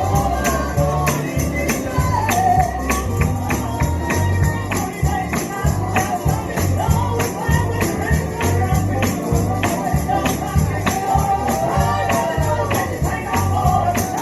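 Live gospel band music, with a tambourine hit in a steady rhythm over a moving bass line and a wavering melody line above.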